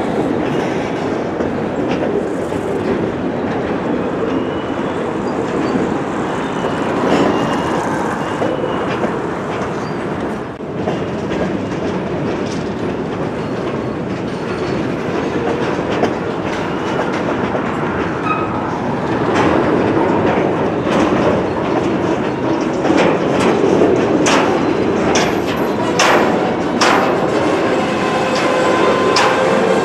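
Empty woodchip gondola freight cars rolling slowly by: a steady rumble of steel wheels on rail with many sharp clicks and clanks, busier in the second half, and a few faint, brief wheel squeals.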